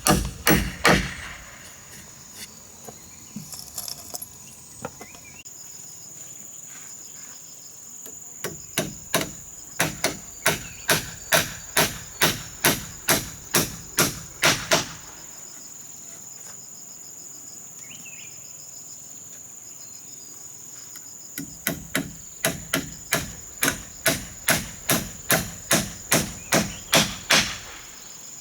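Hammer driving nails into wood in three runs of quick, even blows, about three a second, with pauses between. Crickets chirr steadily throughout.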